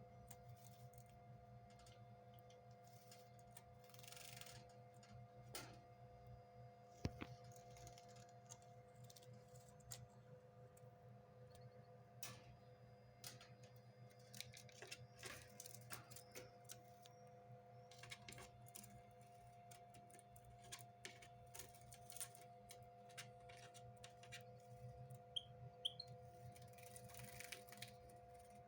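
Faint sounds of a siskin bathing in a cage's drinking bowl: scattered small taps and clicks, with two brief splashing flutters, one a few seconds in and one near the end. Two short high peeps near the end, over a steady low electrical hum.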